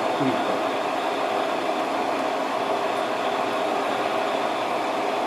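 Metal lathe running steadily, its spindle turning while the tool tip is fed slowly against the workpiece to chamfer the edge.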